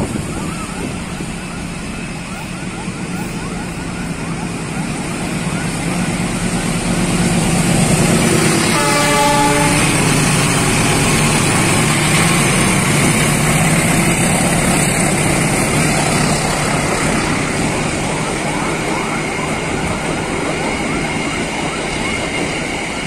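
A KAI diesel-electric locomotive hauling a passenger train approaches and passes close by, growing louder as it nears. Its horn sounds once for about a second and a half, about nine seconds in. The passenger coaches then roll past with steady wheel-on-rail noise.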